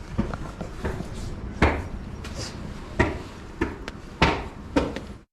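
A series of about ten sharp, irregularly spaced knocks and clicks over a steady hiss, cutting off abruptly near the end.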